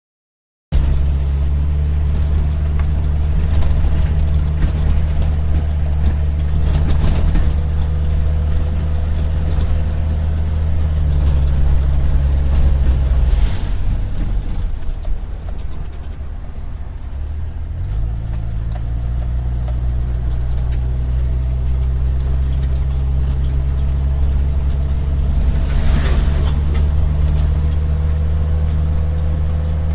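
Motor vehicle driving along a road: a steady low engine drone that breaks up for a few seconds around the middle, then settles back in.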